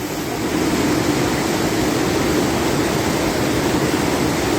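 Floodwater of an overflowing river rushing steadily, a loud even wash of noise with a low hum underneath.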